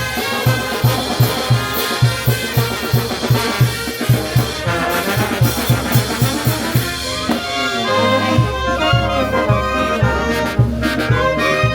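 Peruvian brass band playing: trumpets and trombones carrying the tune over a steady bass-drum beat of about three strokes a second. About eight seconds in, low held bass notes join.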